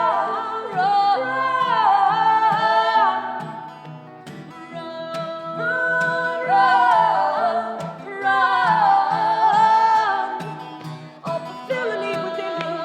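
Live pop-folk song: sustained singing with vibrato over acoustic guitar, swelling and easing off in phrases.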